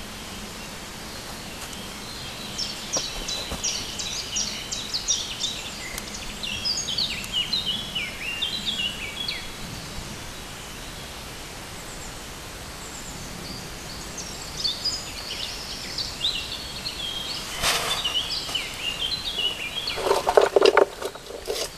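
A songbird singing fast runs of high chirps, twice, over a steady outdoor hiss. Near the end comes a short, louder burst of rustling and knocking.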